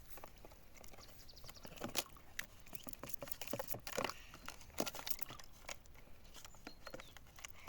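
Irregular rustling and light clicks of things being handled.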